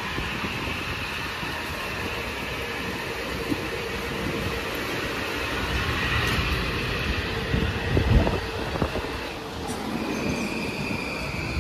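Kawasaki M8 electric multiple-unit cars rolling past as the train departs: a steady rumble of wheels on rails with a level high-pitched whine over it. A few louder thumps come about eight seconds in.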